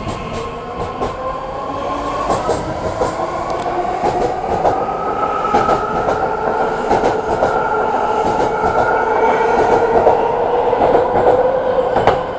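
BART Fleet of the Future train pulling out and picking up speed: a whine from its drive that rises slowly in pitch, with wheels clicking over the rail joints. It grows louder, then drops off suddenly near the end.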